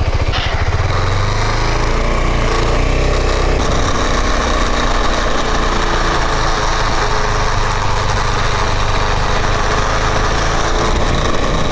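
Motorcycle engine running steadily while under way, its low rumble mixed with road noise.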